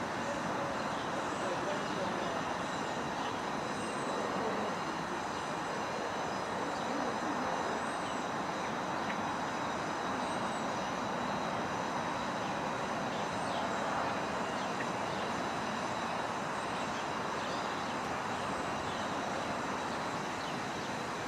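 Electric train: a steady rush of noise with several faint, level high whining tones.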